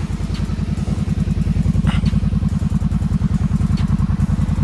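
Kawasaki Brute Force ATV engine idling steadily, its exhaust pulses even and unchanging, with a few faint clicks over it.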